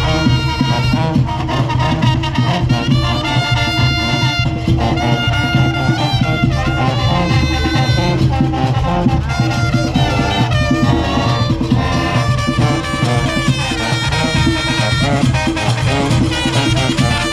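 Live Junkanoo band playing: a dense, driving beat of goatskin drums under brass horns holding and moving through a melody.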